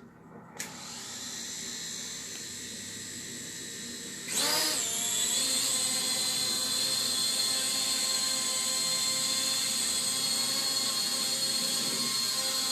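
Small quadcopter drone's electric motors and propellers: a click about half a second in, then a steady whine made of several tones. About four seconds in the pitch rises quickly and the motors settle into a louder, higher steady whine.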